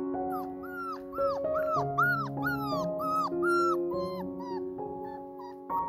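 A small dog giving a quick run of about ten short, high yips, each rising then falling in pitch, about two a second.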